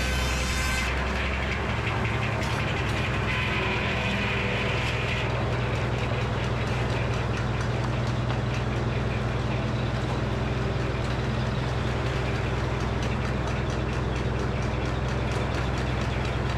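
Frick sawmill running steadily: a low drone with a fast, continuous rattle of the machinery.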